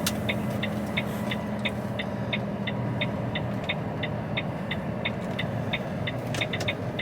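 Turn-signal indicator ticking steadily inside an HGV truck cab, about three ticks a second, over the steady hum of the truck's diesel engine running.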